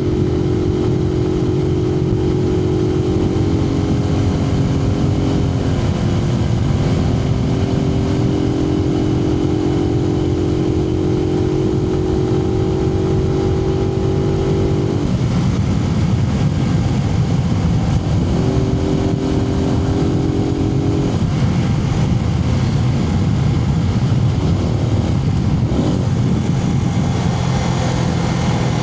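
Suzuki TU250X's single-cylinder engine running under way, heard from inside the rider's helmet over a steady rumble of wind and road noise. The engine pitch holds steady for stretches and shifts several times, and drops lower near the end as the bike slows.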